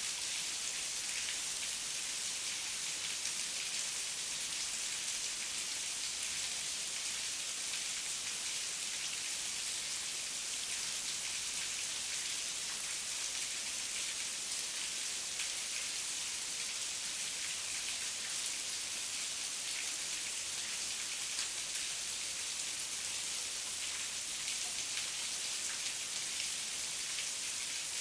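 Steady heavy rain, an even hiss of many fine drop patters with no thunder.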